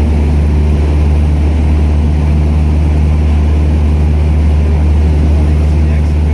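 Small propeller airplane's engine running steadily at a constant pitch, with a loud, even low drone.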